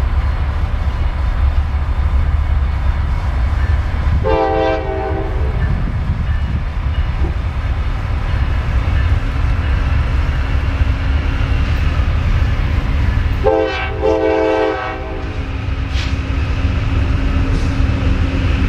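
Diesel locomotive's air horn sounding two blasts about nine seconds apart, each lasting about a second and a half, over the steady rumble of a passing train.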